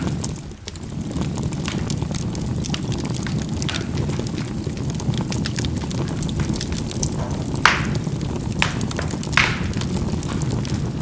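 Charcoal burning in a fireplace: a steady low rush of flame with frequent small crackles, and two louder pops about two-thirds of the way through and near the end.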